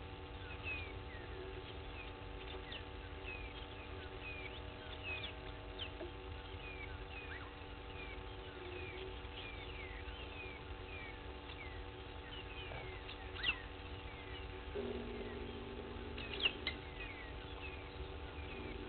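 Wild birds calling: a stream of short, high, downward-sliding chirps repeating every second or so, with two louder sharp calls past the middle, over a faint steady hum. A low steady tone sounds for about two seconds past the middle.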